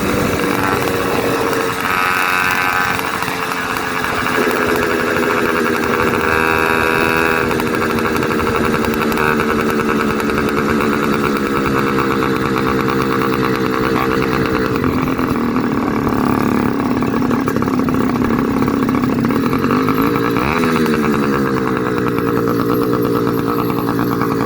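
Zeda 66/80cc two-stroke motorized bicycle engine running under way with its muffler cap and air filter removed, so the exhaust and intake are open and loud. The engine note holds fairly steady, drops lower about fifteen seconds in and rises again as it revs up near the end.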